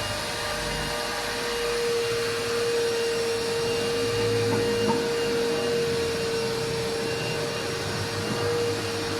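Car wash equipment motor running steadily: a constant whine with an even airy hiss.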